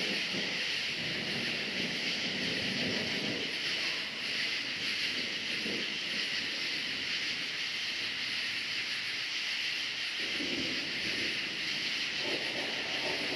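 Crickets chirping in a dense, steady chorus, a continuous high shimmer, with fainter lower sounds coming and going underneath.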